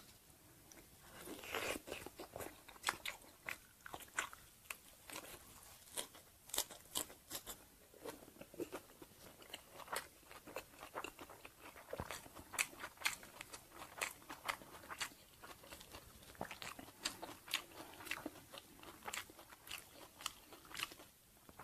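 Close-miked crunching and chewing of banh chhev, a crispy rice-flour crepe, wrapped in fresh lettuce leaves: many sharp, irregular crunches with each bite and chew.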